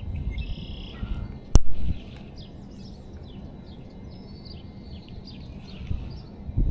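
Small birds chirping in a quick series of short, falling notes, with one sharp click about a second and a half in.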